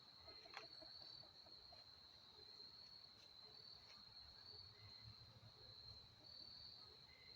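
Faint, steady, high-pitched insect trill from a chorus of crickets or similar insects, with a single soft click about half a second in.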